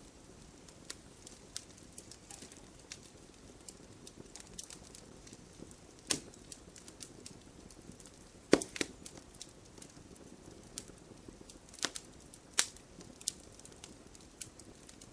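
Wood fire crackling in a fireplace: a steady low crackle with scattered sharp pops and snaps, the loudest pop about halfway through.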